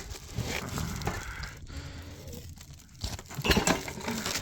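Belongings being handled and packed up, rustling and crinkling like plastic or cloth, with scattered clicks and a louder burst of knocks and clatter about three and a half seconds in.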